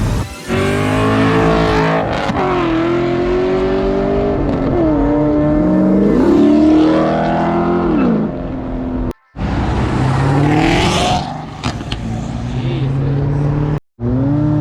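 Performance car engines revving and accelerating hard, pitch climbing and dropping through throttle blips and gear changes, in several short clips cut together with brief dropouts between them.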